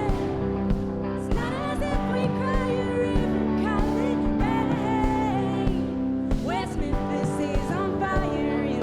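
Live band music from a concert stage, with singing over sustained chords.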